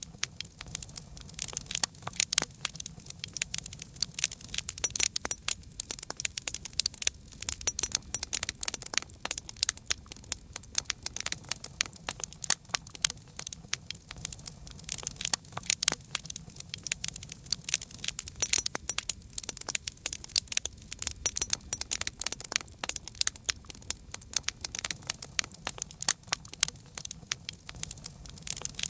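Campfire crackling: dense, irregular snaps and pops of burning wood over a low, steady rumble of the flames.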